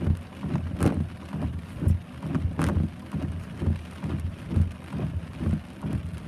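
Heavy rain falling, with uneven low thuds throughout and a couple of sharp taps about one second and two and a half seconds in.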